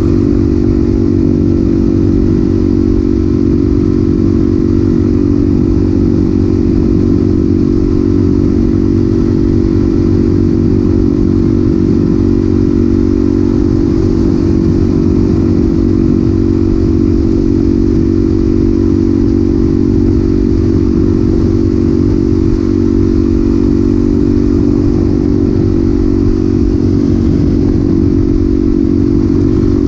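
Suzuki DRZ400SM's single-cylinder four-stroke engine running through a Yoshimura exhaust, holding a steady engine speed with no revving.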